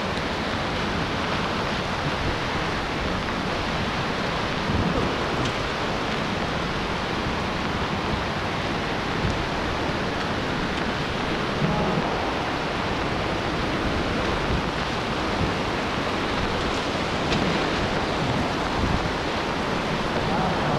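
Heavy rain falling steadily on trees and muddy ground, heard close on a wet camera, with a few soft thumps scattered through.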